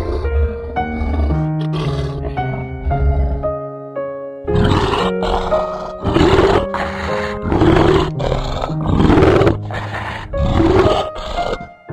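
A large wild animal roaring in a series of loud, rough calls about a second apart, starting about four seconds in, over steady background music.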